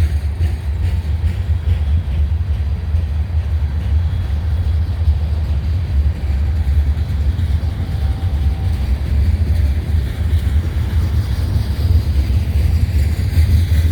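A long freight train's cars rolling past at track side, a steady low rumble with no breaks.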